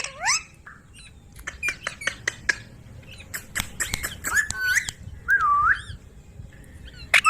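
Ringneck parrot calling: a rising squawk at the start, then a run of short, sharp chirps and clicks, and two curved whistled notes, one about five and a half seconds in and one near the end.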